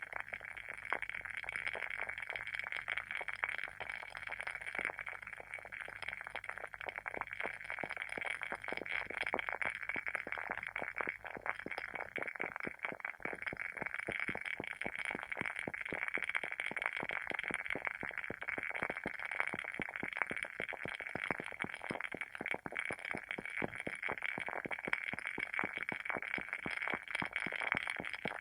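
WoodWick candle's wooden wick crackling as it burns: a steady stream of small, rapid pops and clicks.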